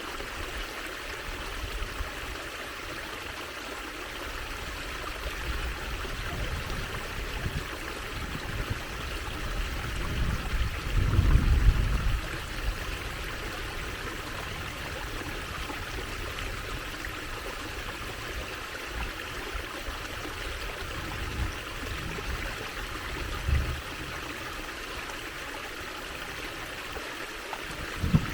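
Water trickling and running steadily in a small stream. A low rumble swells up about ten seconds in and fades after a couple of seconds, with shorter low thumps later on.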